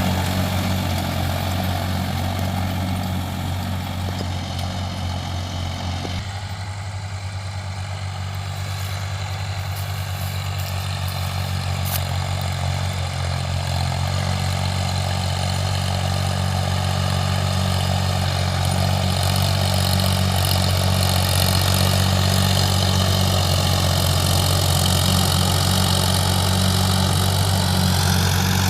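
Ford 3600 tractor's three-cylinder engine running steadily, with a slight dip a few seconds in, then growing gradually louder through the second half.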